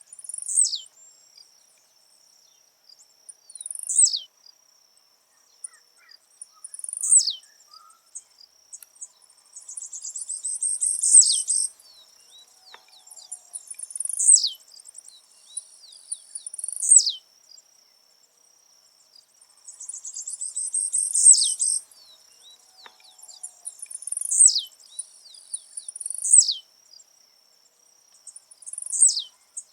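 Blue-black grassquit (tiziu) singing its short, buzzy downward-sweeping song about every three seconds, around ten times. Twice the song is drawn out with a longer buzzy lead-in.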